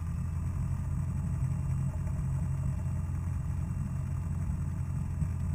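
Single-engine Cessna's piston engine idling at low power while taxiing, a steady low drone with the propeller turning slowly.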